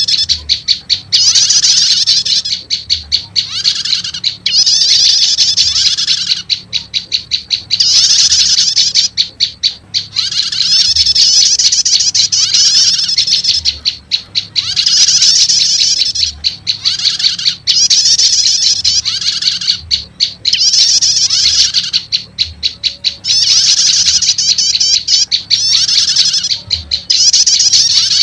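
Olive-backed tailorbird calls played as a bird-trapping lure: loud, high-pitched rapid trills alternating with quick series of sharp ticking notes, repeating every couple of seconds.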